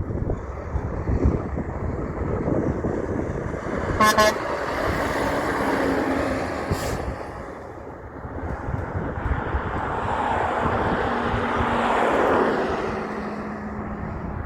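A truck horn gives one short toot about four seconds in, over the rush of heavy trucks passing on the road. The passing noise swells twice.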